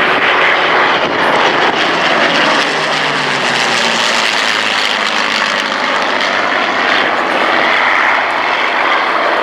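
Rolls-Royce Merlin V12 piston engine of a Second World War fighter flying past at full power. Its note drops in pitch over the first few seconds as it passes, then carries on as a steady, loud engine sound.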